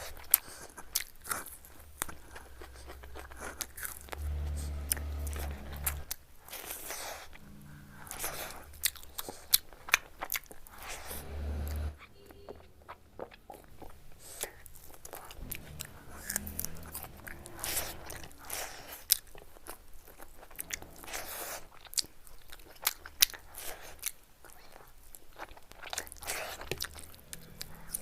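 Close-miked eating: a person biting and chewing, with many sharp, irregular crunches and wet mouth sounds. Twice there is a low rumble lasting a second or two.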